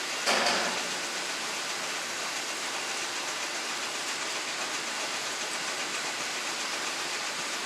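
Steady rushing noise of peanut dryer blowers pushing hot air, with one short, loud burst about half a second in.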